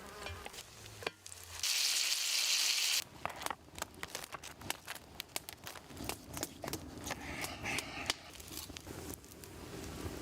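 Food sizzling in a cast iron pan over a campfire. A loud burst of hissing comes about two seconds in and stops suddenly about a second later, followed by a run of sharp crackles and clicks.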